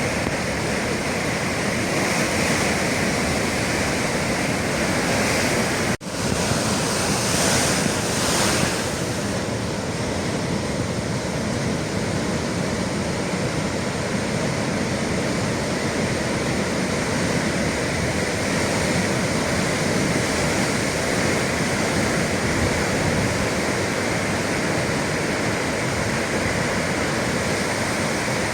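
Atlantic sea waves surging and breaking in a continuous rush of surf, broken once by a momentary dropout about six seconds in.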